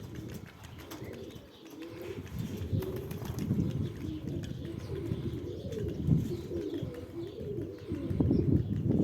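Domestic pigeons cooing: several low, wavering coos overlapping, growing louder near the end.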